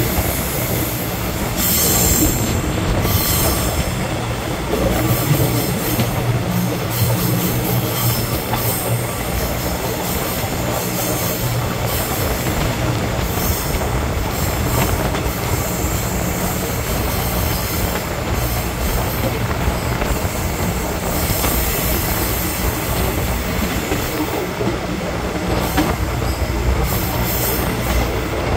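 Express passenger train running along the track, heard from a carriage window: a steady rumble of wheels on rail, with clicks over the rail joints scattered throughout.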